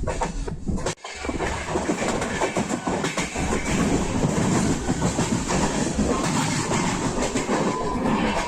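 Passenger train running along the track: wheels clattering over rail joints and the coach rattling steadily, with a brief break in the sound about a second in.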